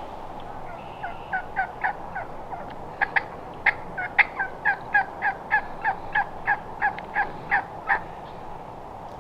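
Wild turkey yelping: a long run of short, evenly spaced notes, about three a second, swelling louder in the middle of the run.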